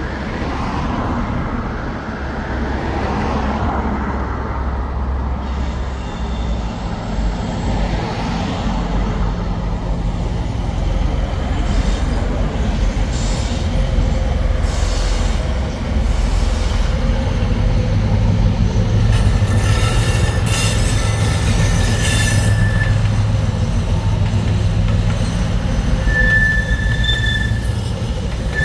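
A train moving through a station: a steady low rumble, with high-pitched wheel squeal setting in about two-thirds of the way through and again near the end.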